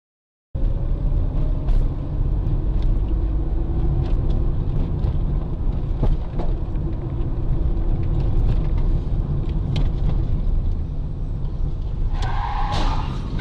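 Steady low rumble of a running vehicle with scattered light clicks, starting abruptly about half a second in.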